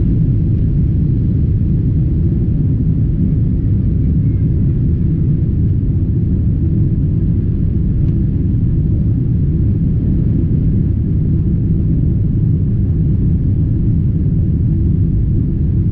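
Steady low rumble of a boat under way, unchanging throughout.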